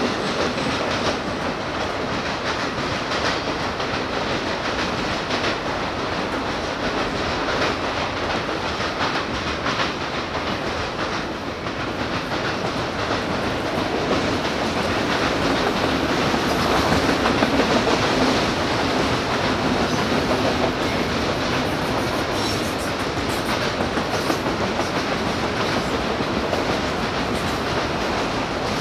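Autorack freight cars rolling past, a steady rumble of steel wheels on rail with rapid clicking over rail joints, a little louder for a few seconds past the middle.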